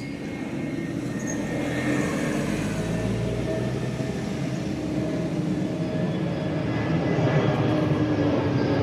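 A vehicle rumbling steadily and slowly growing louder.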